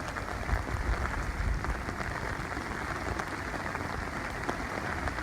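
Heavy rain falling steadily, with a low rumble from about half a second to two seconds in.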